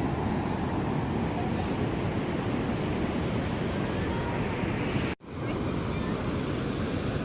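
Ocean surf washing in steadily, with wind rumbling on the microphone. The sound cuts out abruptly for an instant about five seconds in, then resumes.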